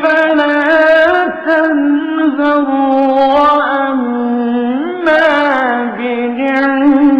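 A man's voice chanting a Quran verse in melodic recitation, drawing out long, ornamented notes with pitch turns and few breaks.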